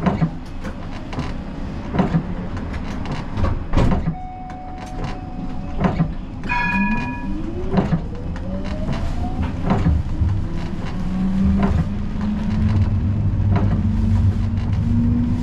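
Siemens Combino tram running on street track, its wheels clicking sharply over rail joints. The electric traction drive gives a whine that rises in pitch as the tram picks up speed, with a brief ringing tone about six and a half seconds in.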